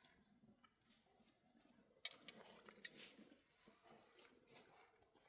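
Faint, steady chirping from an insect, a fast even train of high pulses that never breaks, with a couple of faint clicks about two and three seconds in.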